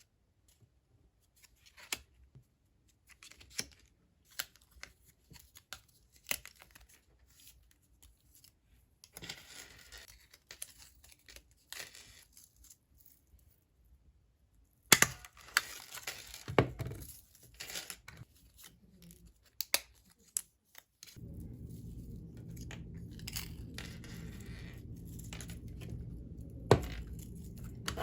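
Packing by hand: scattered clicks and handling noises, then a few loud tearing sounds like paper or tape being torn about halfway through. A steady low hum starts about three-quarters of the way in.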